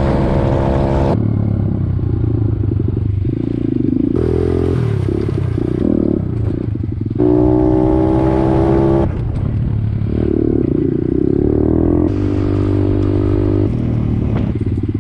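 Pit bike engine running under way, its pitch rising and falling with the throttle and shifting abruptly several times.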